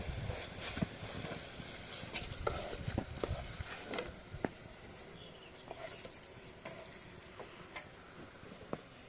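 Scattered small clicks and knocks of cooking and food handling, with a low rumble in the first few seconds that then fades.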